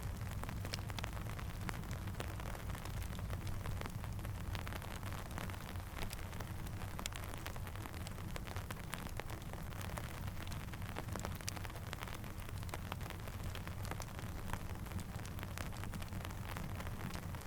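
Steady rain mixed with a crackling campfire. Many small sharp pops and ticks are scattered over an even hiss and a low steady rumble.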